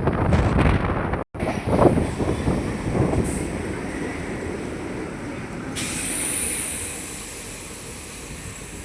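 Express passenger train running along the track, heard from on board: a steady rumble and wheel noise, with a brief dropout about a second in and a high hiss coming in past the middle.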